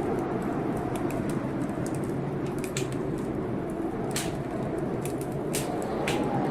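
Wood fire crackling in a fireplace, with sharp pops coming irregularly about once a second, over a steady rushing storm noise.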